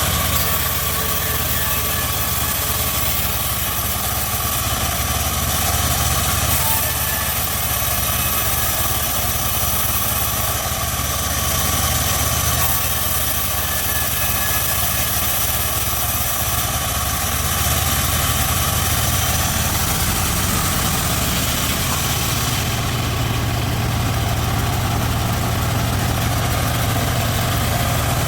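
Home-built bandsaw mill sawing teak: a steady, loud machine drone with a low hum and a high hiss. The hiss drops back for a few seconds near the end.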